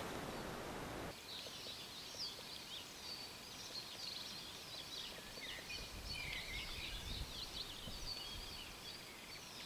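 Songbirds singing faintly: many short, quick chirps and trills overlapping, without a break.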